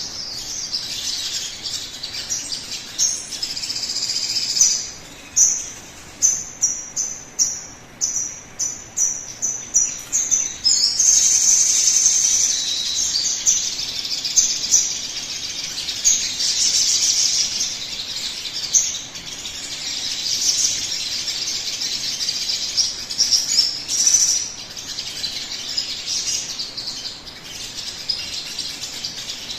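Sogon bird singing, as a lure song to set a kept bird singing. First comes a run of short, sharp chirps at about two a second, then from about midway a dense, continuous warbling phrase of high notes.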